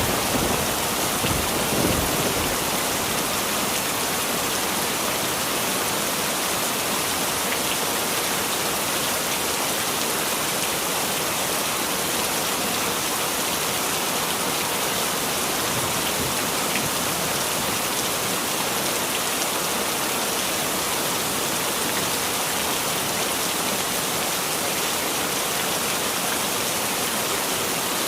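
Heavy rain falling steadily with an even hiss. The last of a thunder rumble dies away in the first two seconds.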